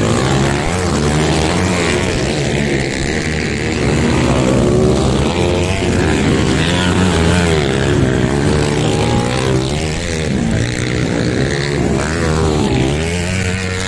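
Dirt bike engines revving, their pitch rising and falling again and again without a break.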